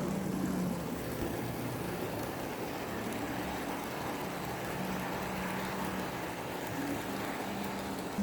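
HO scale model locomotive running on a layout's track: a steady whir and rail rumble, with a low motor hum that fades and returns.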